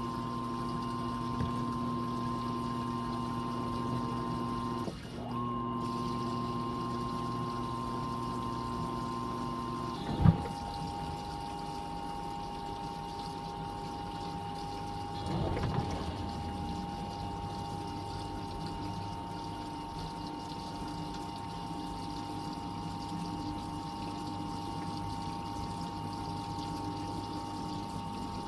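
Fisher & Paykel MW059 washing machine in its final spin: a steady motor whine with water being pumped out. About ten seconds in, a knock, and the whine settles to a lower pitch.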